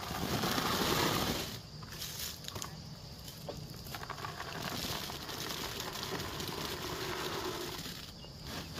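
Harvested cashew fruit and nuts being poured out into a sack, a loud rushing tumble in the first second and a half, then continued rustling and shifting.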